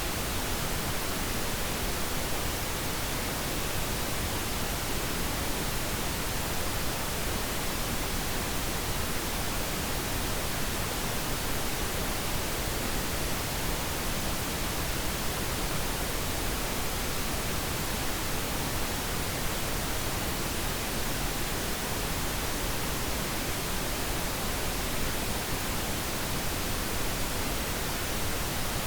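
Steady pink noise: an even, unchanging hiss spread across all pitches, with no breaks or changes.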